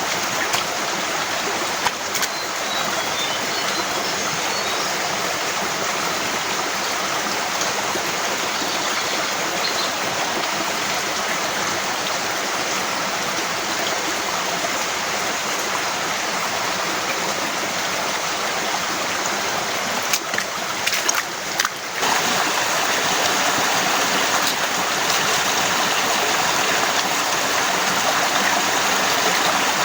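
Heavy rain falling, a steady dense hiss of water. About twenty seconds in it breaks off briefly with a few clicks, then carries on slightly louder.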